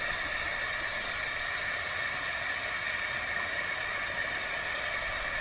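Dirt bike engine running at a steady pitch, cutting in suddenly at the start.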